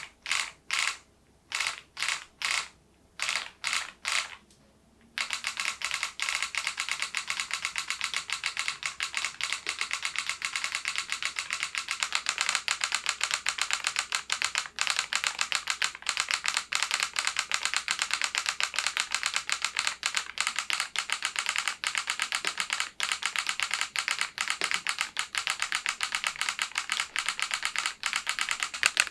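Typing on a SMURVE80 retro mechanical keyboard with a solenoid module fitted, each keystroke sounding the switch click together with a solenoid clack that imitates a typewriter. It starts with a handful of separate keystrokes, then from about five seconds in turns to steady fast typing.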